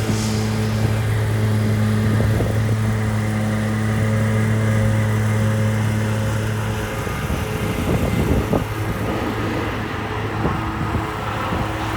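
An engine running steadily with a low hum. The strongest part of the hum drops away about seven seconds in, leaving a fainter, differently pitched hum over background noise.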